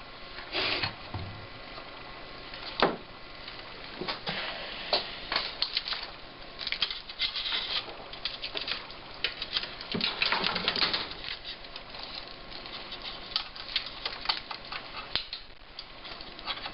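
Irregular light clicks, taps and rustling of hands handling equipment on a workbench, with a sharper knock about three seconds in.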